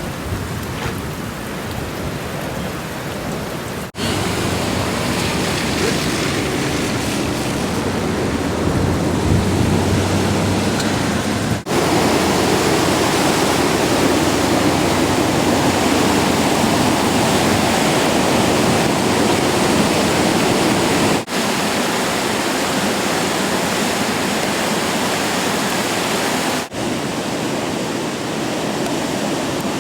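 Steady rushing of a river running in flood, broken by four short dropouts where the footage cuts between shots.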